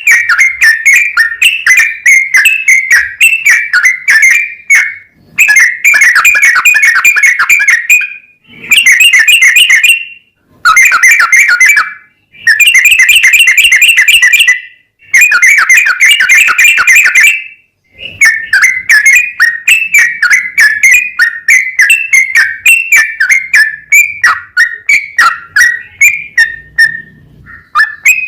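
Yellow-vented bulbul (trucukan) singing a long, rapid, chattering song of quick whistled notes. It comes in several bursts with brief pauses between them, then runs on in one longer stretch.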